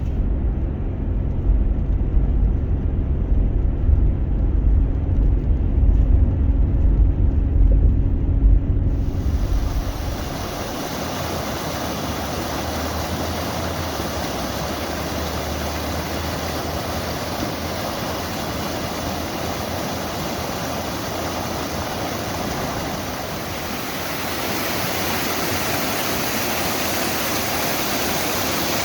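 A heavy low rumble for about the first nine seconds, then a steady rushing of water that fills the rest, growing a little louder near the end.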